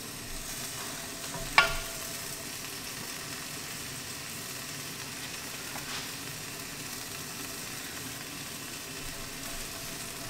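Noodles, vegetables and sauce sizzling steadily in a hot wok as the sauce cooks down, with a sharp knock about one and a half seconds in and a fainter one around six seconds.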